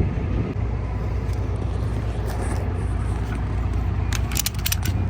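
Tow truck's engine idling steadily, with a quick run of sharp metallic clicks near the end from the tie-down strap hardware.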